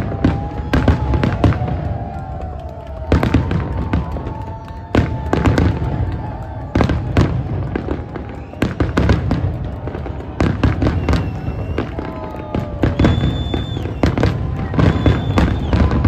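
Fireworks display: aerial shells bursting overhead in quick succession, a rapid run of sharp bangs, some in tight clusters, over a continuous low rumble.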